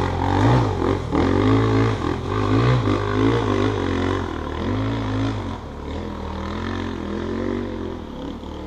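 Dirt bike engine revving up and down several times, its pitch rising and falling about once a second, then growing fainter near the end.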